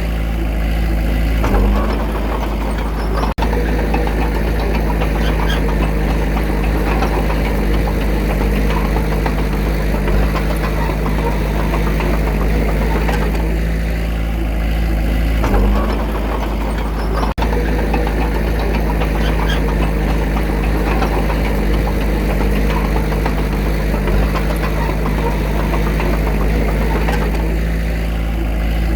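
Diesel engine of a small earthmoving machine running steadily, its pitch shifting briefly about a second and a half in, again about halfway through, and near the end. The sound cuts out for an instant twice.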